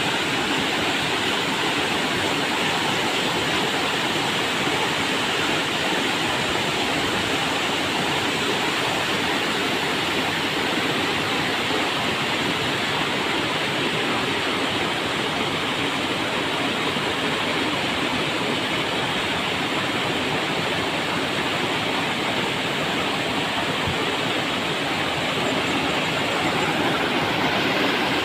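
River water flowing over rocks: a steady, even rush of moving water.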